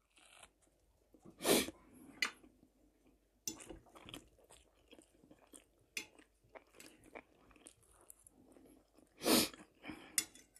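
Close-up chewing and mouth sounds of a person eating bread and an egg omelette with bell pepper, with many small clicks. Two louder short breathy bursts come about a second and a half in and near the end.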